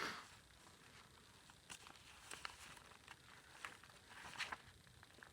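Faint rustling and a few light clicks from paper and a plastic acetate bag being handled and turned in a junk journal, with a soft swish as it begins.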